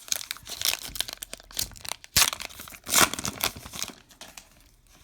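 Baseball card pack wrapper being crinkled and torn open by hand, a dense run of crackling with two louder rips about two and three seconds in. The crackling dies down near the end.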